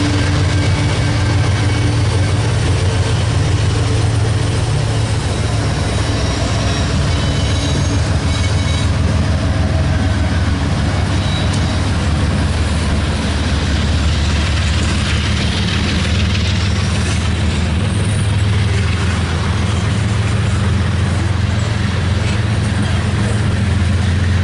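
Freight train passing close by: the low steady drone of a CSX GE diesel locomotive going past, then covered hopper cars rolling over the rails in a continuous rumble.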